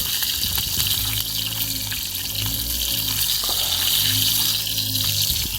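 Chicken sizzling on a grill net over a campfire: a steady frying hiss with a few faint crackles from the fire.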